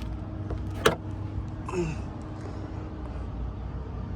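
A 2011 Chevrolet Camaro SS's hood latch gives a single sharp click about a second in as the hood is released and opened, over steady low background noise.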